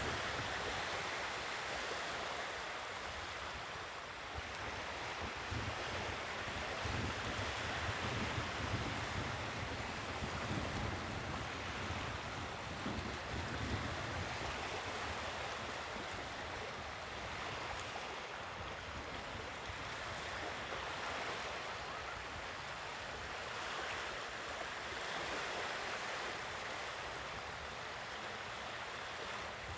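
Sea waves breaking and washing on the shore, swelling and easing every few seconds, with wind buffeting the microphone in low gusts.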